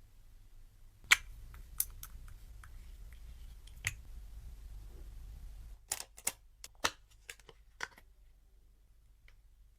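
Sharp clicks and taps of packaged products being handled: three spaced out at first, then a quicker run of them in the second half.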